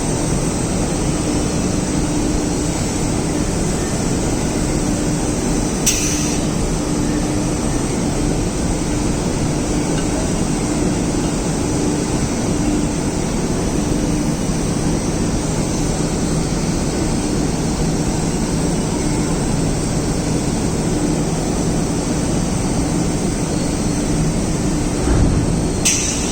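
Steady machinery rumble with a faint low hum from a railway wagon tippler at work unloading clinker. There are two brief clicks, one about six seconds in and one at the very end, and a short low bump near the end.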